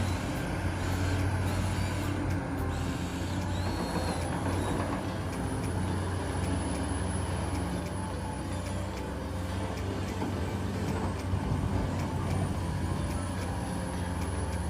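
Heavy diesel engine running steadily at a low, even pitch, with a few brief high squeals in the first few seconds.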